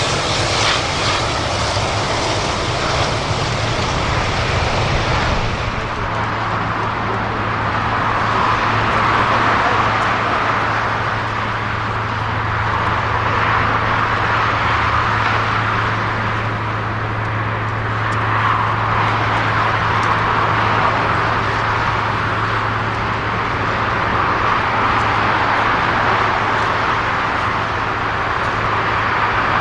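Jet airliner engines running, loud and rushing for the first five seconds, then a steady low hum with a rush that swells and fades every several seconds.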